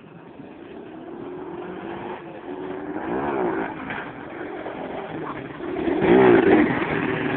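Motorcycle engines revving, the pitch climbing and falling back twice, loudest about three and six seconds in.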